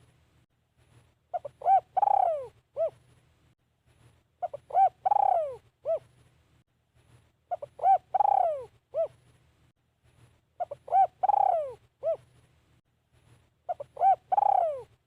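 Spotted dove cooing its song: a phrase of a few short coos, a long falling coo and one short closing note. The phrase repeats at a steady pace about every three seconds, five times over.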